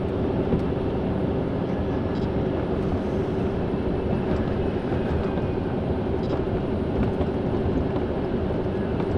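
Steady road and engine noise heard from inside a moving car, with a constant hum running through it.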